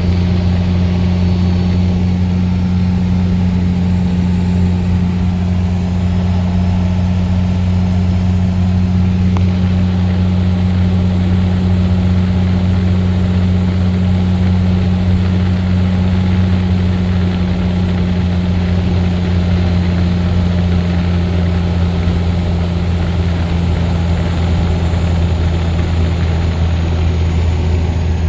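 12-valve Cummins inline-six turbo diesel running steadily, a constant low drone with no change in engine speed.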